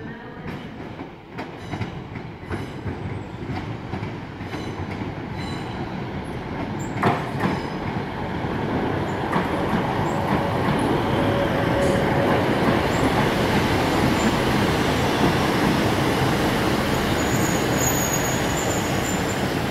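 First Great Western diesel multiple unit approaching and passing close by: its wheels click rhythmically over the rail joints, then a growing rumble of wheels and running gear, with a faint high squeal near the end.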